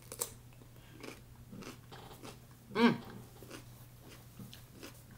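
A bite into a fresh cucumber spear close to the microphone, a sharp snap just after the start, followed by chewing with scattered small clicks. About three seconds in there is one short voiced sound, falling in pitch.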